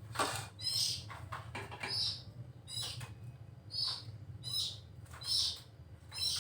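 A small bird calling in short, high-pitched chirps, about one a second, over a steady low hum.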